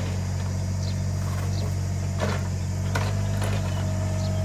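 Small CAT excavator's diesel engine running steadily, with a few short knocks from the machine. A thin steady whine joins in about three and a half seconds in.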